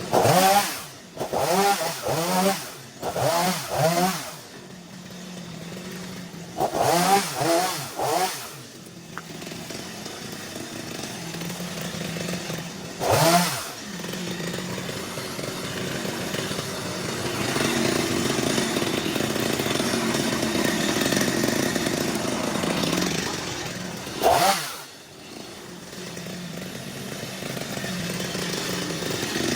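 Two-stroke chainsaw running, with repeated short blips of the throttle: four quick revs in the first few seconds, three more around seven seconds, then single revs twice later on. Between the revs it runs steadily, a little louder for a while in the middle.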